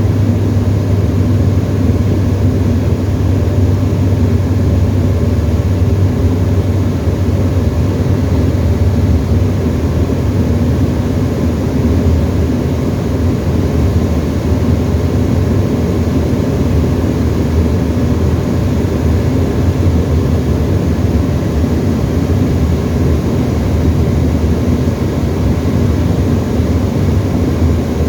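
Steady drone of a Tecnam ultralight's piston engine and propeller in flight, heard from inside the cockpit, with no change in pitch or level.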